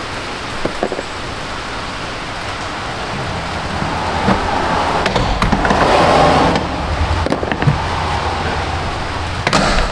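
Steady hiss of rain that swells about halfway through, with a few sharp clicks and creaks of plastic as the retaining clips of a GMC Envoy rear door trim panel are pried loose.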